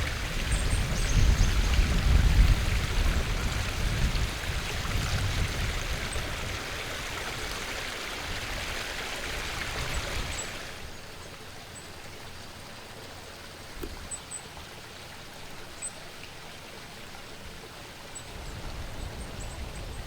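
Running water at a woodland bird-watering spot: a steady rushing hiss with some low rumble, which drops suddenly to a quieter flow about ten seconds in. Faint, short, high bird chirps come and go throughout.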